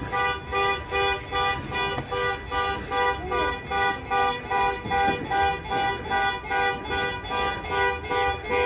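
An electronic warning beeper sounding a repeated multi-tone beep, about two beeps a second, which stops near the end.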